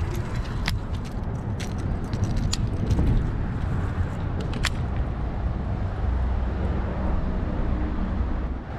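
Strong wind buffeting the microphone: a steady, uneven low rumble, with a few light clicks scattered through it.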